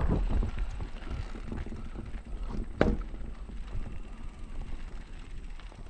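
Electric mountain bike rattling down a rough dirt trail: steady tyre and frame noise with irregular knocks, and one sharp knock about three seconds in.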